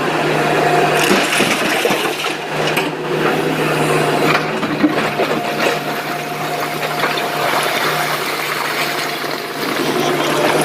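Excavator's diesel engine running steadily under load, with a whine from its hydraulics and a few light knocks.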